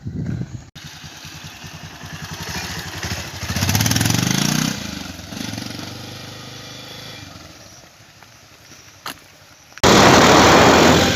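Bajaj Pulsar 220's single-cylinder engine revving up, rising in pitch about four seconds in, then falling away and fading as the bike rides off. Near the end a sudden loud rushing noise cuts in.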